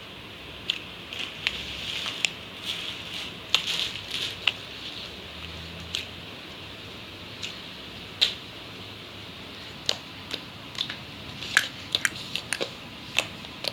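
Slime being squeezed and kneaded by hand, with air pockets popping in irregular sharp clicks and crackles over a soft wet squishing.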